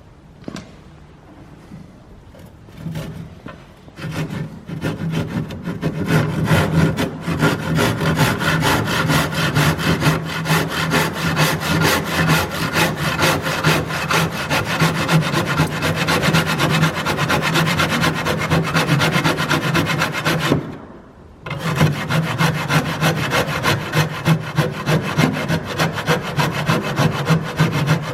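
Handsaw cutting through a timber bottom plate, rapid regular back-and-forth strokes. It starts slowly with a few strokes, settles into fast steady sawing a few seconds in, pauses briefly about three-quarters of the way through, then carries on.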